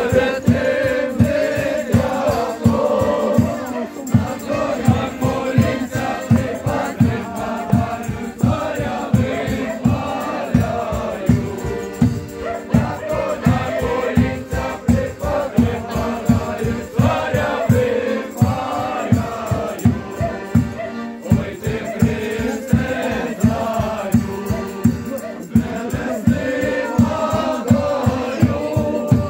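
A group of voices singing a Ukrainian festive folk song together, over a steady, regular drum beat.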